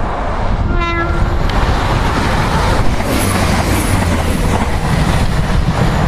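Class 175 diesel multiple unit passing close by, a loud, steady rumble of engine and wheels on the rails, with a short horn note about a second in.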